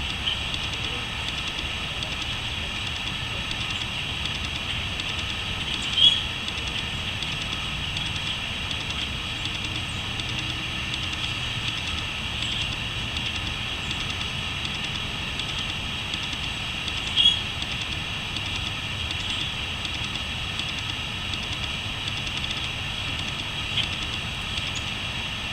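Crickets chirping in a steady, continuous chorus, with two brief louder chirps standing out, about six seconds in and again past the middle.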